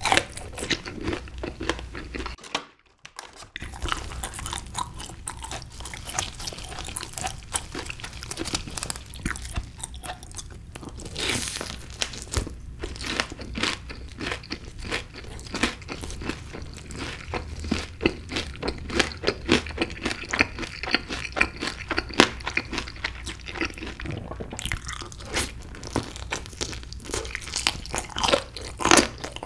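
Close-miked crunching and chewing of crispy honey-glazed fried chicken (Kyochon Honey Combo) eaten off the bone, a dense run of crackly bites and chews, with a brief break about three seconds in.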